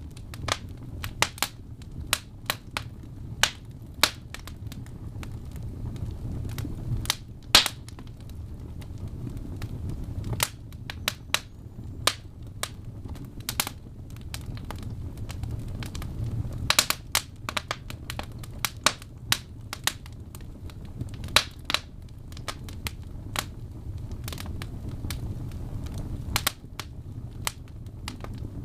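Wood fire in a fireplace crackling, with irregular sharp pops and snaps over a steady low rumble of the flames, one pop standing out louder about seven seconds in.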